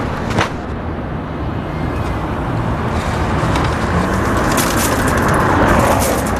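A car's engine and road noise run steadily, with a sharp click about half a second in and a cluster of crackly clicks near the end.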